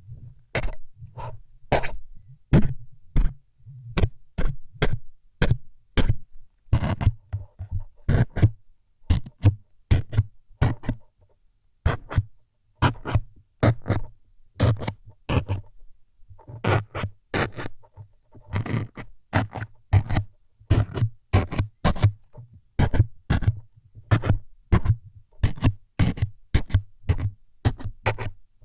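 Close-miked ASMR needle-stabbing sounds: short, sharp stabbing scrapes, each with a dull thud beneath it, about two a second, with a couple of brief pauses.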